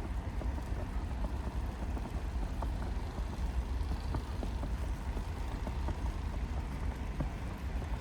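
Steady low rumble of city ambience, the drone of distant traffic, with scattered faint ticks over it.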